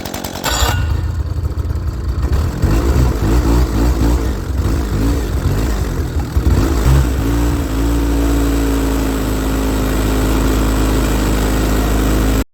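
Snowmobile engine running under way, its pitch rising and falling with the throttle, then holding steady for the last few seconds before cutting off abruptly. It follows a half-second of chainsaw at the very start.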